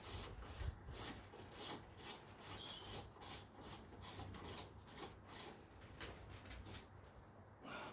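A hand driver undoing a T25 Torx screw: a steady series of short rasping strokes, about two to three a second, that stops around six seconds in.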